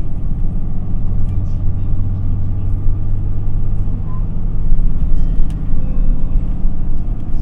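Interior ride sound of an Isuzu Erga city bus (QPG-LV234L3) under way: a steady low diesel engine drone, with faint rattles and clicks from the cabin.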